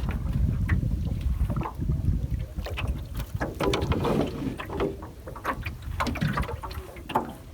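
A gill net being hauled by hand into a small boat: water splashing and dripping, with scattered knocks and clicks against the hull. Wind rumbles on the microphone throughout.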